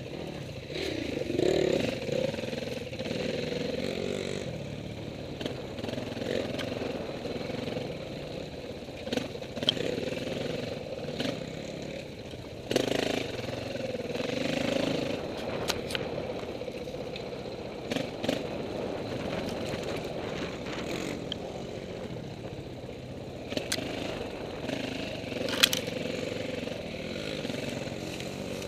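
Off-road dirt bike engine running at varying revs, rising and easing, with scattered sharp clicks and clatter.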